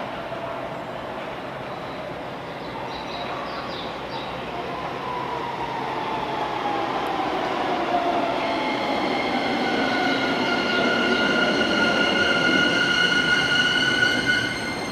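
Keisei 3000 series electric train approaching and growing louder over rumbling running noise, with a whine that falls in pitch and then several steady high-pitched tones in the second half.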